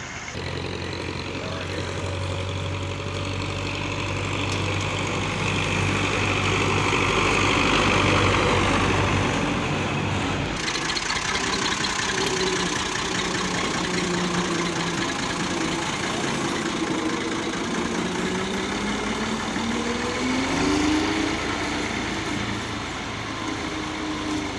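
Belarus tractor's diesel engine running, steady for about the first ten seconds, then changing abruptly, with its pitch rising and falling as the engine speed varies.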